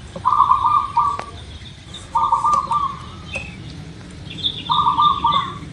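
Zebra dove (perkutut) cooing in three short, rapidly pulsed coo phrases about two seconds apart. Fainter high chirping from another bird runs alongside.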